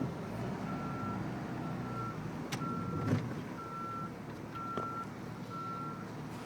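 Vehicle backup alarm beeping, a steady single-pitch beep about once a second, six times, over the low running of a diesel truck engine.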